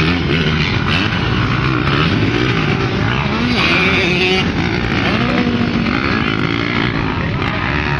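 Several motocross bikes racing, their engines revving up and easing off over and over, the pitches rising and falling as they overlap.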